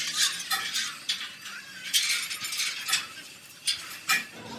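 Irregular light metallic clinks and taps, metal tools or parts knocking together, about seven strikes with no steady rhythm.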